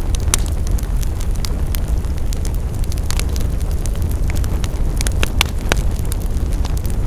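Wood fire crackling: a steady low rumble of the burning fire with many sharp pops and snaps at irregular moments.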